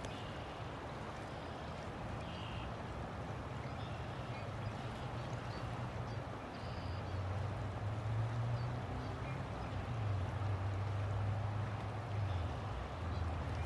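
River water flowing steadily, with a low rumble under it that grows louder about halfway through. A few faint short high chirps come and go.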